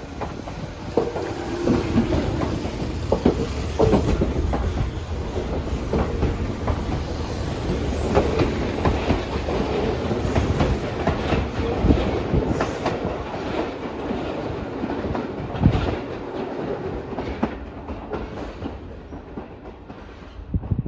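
Tobu line electric train running along the track, its wheels knocking over the rail joints at irregular intervals; the sound fades away in the last few seconds.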